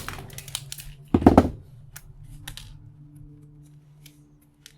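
Hammer blows on a brass scrap fitting about a second in, a quick cluster of metal-on-metal strikes, followed by a few light clinks as the loosened pieces are handled.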